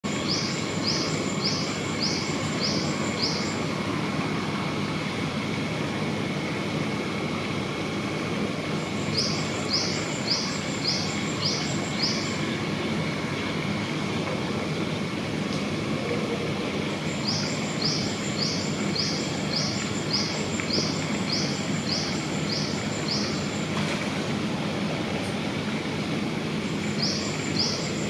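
A bird calling in runs of short, high chirping notes, about two a second, four runs in all, over a steady background hum.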